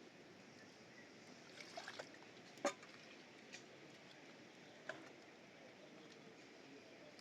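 Quiet background with a few scattered sharp clicks and knocks. The loudest comes about two and a half seconds in, with a small cluster just before it and single ones later.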